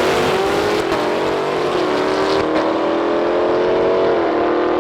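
Car engine accelerating hard on a drag strip, its pitch climbing and then dropping back at upshifts about one, two and four seconds in.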